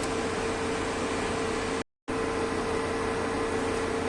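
Steady background hiss with a constant low hum, broken by a brief dead gap of silence about two seconds in.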